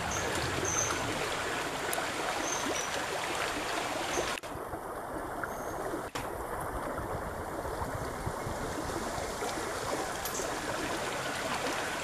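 River water running over rocks, a steady rushing stream sound, with a few faint short high chirps.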